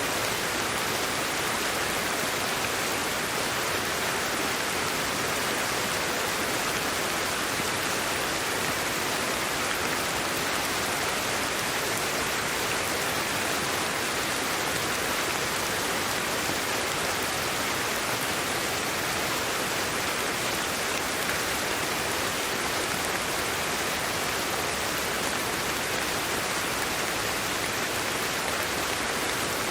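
Steady sleep-aid white noise: an even, unbroken hiss that does not change, light in the bass.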